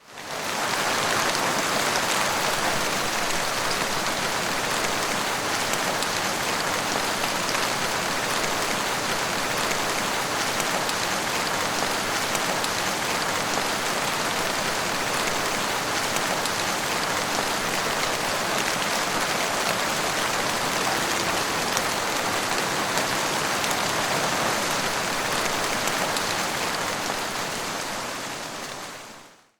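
Heavy rain falling steadily, an even dense hiss of drops with no thunder. It fades in at the start and fades out over the last few seconds.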